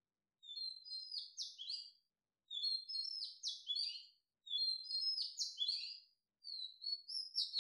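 A small songbird singing faintly: a short phrase of quick high chirps, repeated four times about every two seconds.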